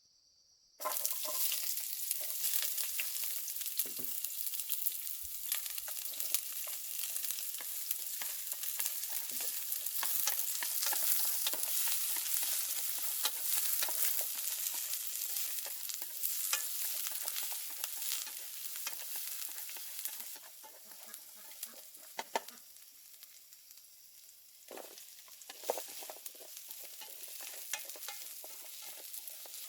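Food frying in hot oil in a pan, a dense sizzle full of small crackles, starting abruptly about a second in and easing off in the second half.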